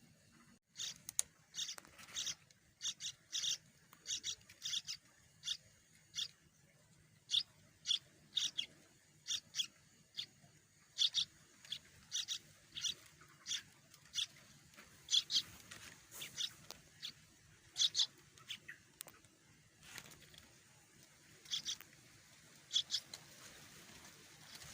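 Yellow-vented bulbul nestlings begging from the nest with short, high peeping calls, often in quick pairs, repeated irregularly: hungry chicks calling for a parent to feed them.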